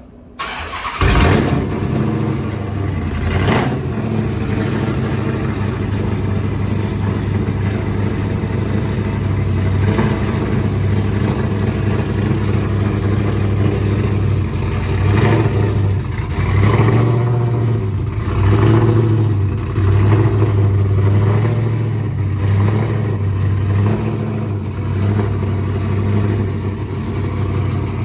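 A car engine starts about a second in and then runs loudly, with its pitch rising and falling a few times as the throttle is blipped.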